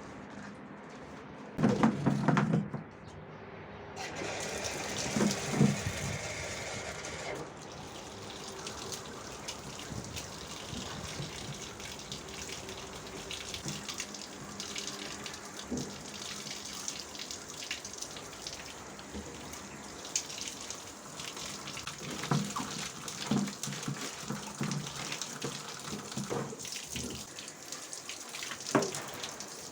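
Water running and splashing during cleaning, with several loud knocks about two seconds in and scattered knocks and clatter after that.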